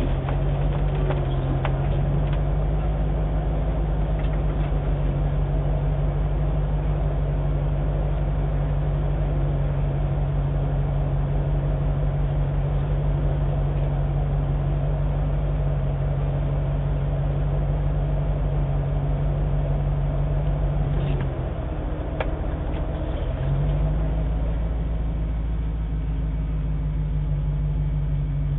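Land Rover Defender's engine idling steadily, heard from inside the cab, its note dropping away briefly about three-quarters of the way through before settling back to the same idle.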